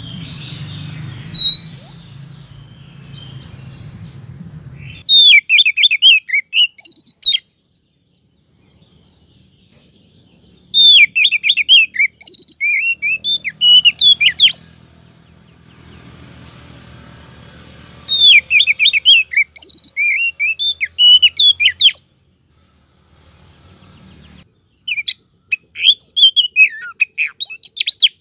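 Female oriental magpie-robin calls played as a lure to attract males: bursts of rapid, high chirps and twitters, each a few seconds long, repeating every six or seven seconds.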